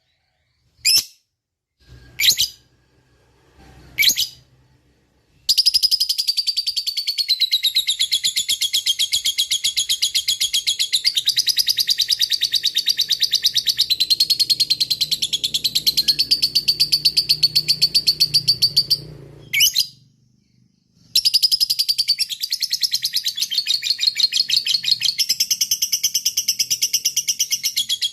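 Lovebird singing its long 'ngekek' chatter: a few single shrill chirps, then a long unbroken run of very fast, high-pitched chirps lasting about fourteen seconds. It breaks off briefly and starts again for the rest of the clip.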